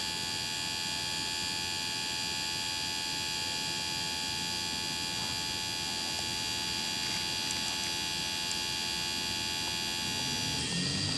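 Steady electrical hum and whine, made of many fixed tones from low to very high pitch, holding at one level. The high part shifts about ten and a half seconds in.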